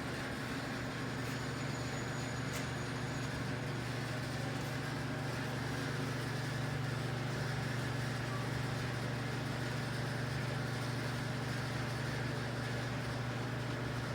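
Steady low mechanical hum, even throughout and without changes.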